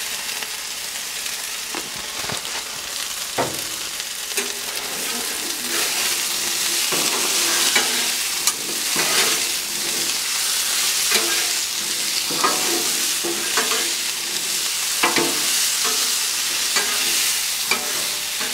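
Diced potatoes sizzling in oil on a Blackstone flat-top steel griddle, with metal spatulas scraping and clicking against the griddle plate now and then as the potatoes are turned.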